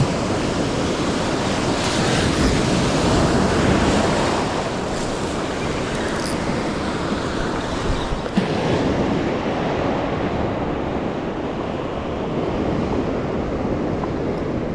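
Ocean surf breaking and washing up a sandy beach, swelling louder about two seconds in, with wind buffeting the microphone.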